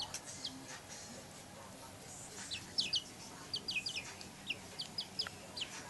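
Baby chicks peeping: short, high cheeps that fall in pitch, a few at first, then coming in quick runs from about two and a half seconds in.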